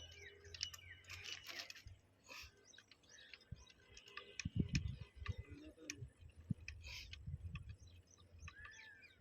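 Faint background of scattered bird chirps, with light clicks and low thuds in the middle seconds.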